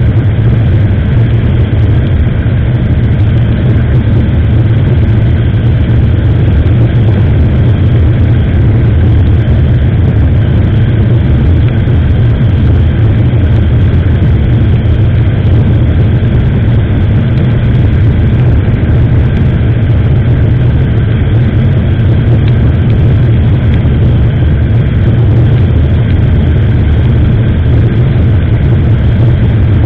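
Steady loud rumble of a motorcycle ride picked up by an SJCAM action camera: wind on the microphone and the engine running at an even speed, with no change throughout.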